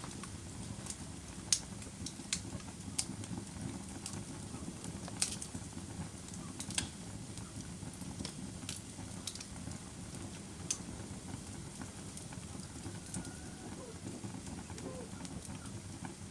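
Wood fire crackling in a fireplace: sharp, irregular pops and snaps over a steady low rumble of the burning logs.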